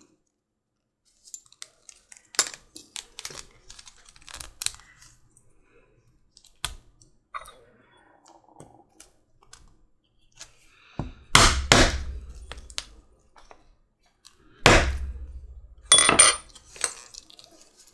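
Small clicks and clinks of rivet parts and leather being handled, then several sharp hammer strikes on a metal rivet setter, in three bunches in the second half, setting a rivet through layered leather.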